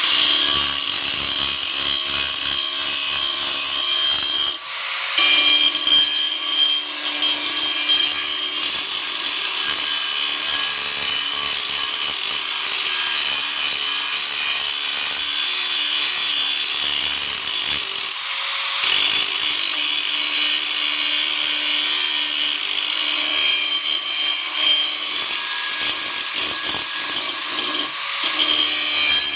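Power tool cutting into steel plate, running steadily with a couple of brief breaks in the cut.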